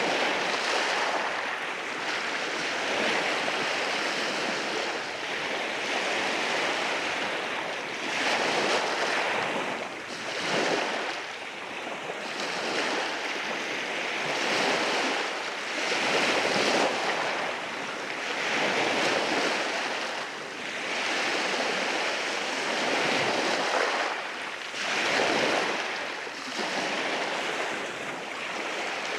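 Sea waves rolling in over rocks on the shore: a continuous rush of surf that swells and eases every few seconds as each wave breaks and washes back.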